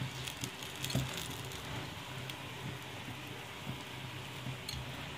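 Mooli paratha frying in ghee on a flat tawa: a steady crackling sizzle with a few light clicks, over a low hum.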